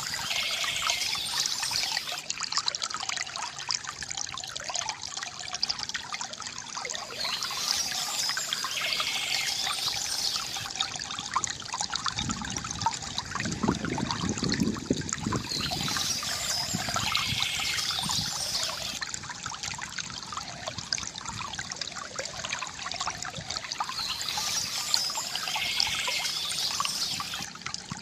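Water trickling and gurgling steadily from a bamboo fountain spout, with a deeper gurgle swelling about halfway through.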